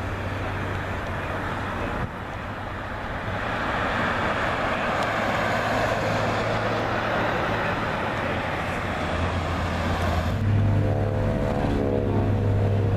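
Loud, steady engine noise with a broad hiss that swells a few seconds in; about ten seconds in it changes abruptly to a deeper, droning engine tone with a wavering pitch.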